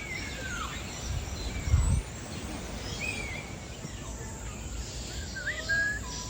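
Scattered bird calls, short whistled chirps and slurred notes from several birds, over a steady outdoor background hum, with a brief low thump about two seconds in.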